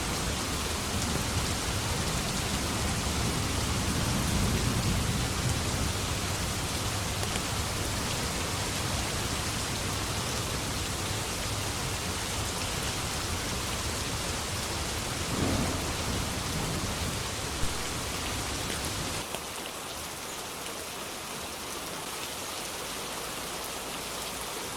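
Steady heavy rain with low, rolling thunder underneath, swelling about four seconds in. The thunder rumble drops away suddenly about three-quarters of the way through, leaving the rain alone.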